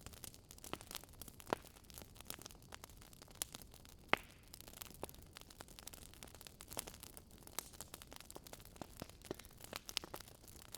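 Wood fire crackling: irregular small pops and clicks over a low hiss, with two louder pops about a second and a half in and about four seconds in.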